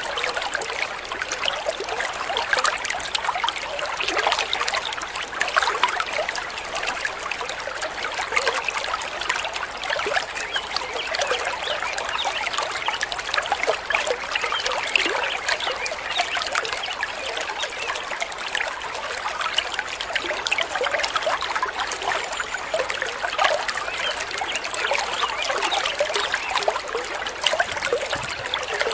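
Water trickling and babbling steadily in a small stream.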